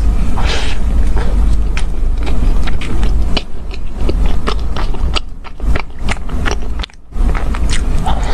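Close-miked biting and chewing of a soft chocolate-glazed, cream-filled bun, with many small sharp mouth clicks. A steady low hum runs underneath, and there is a brief dip about seven seconds in.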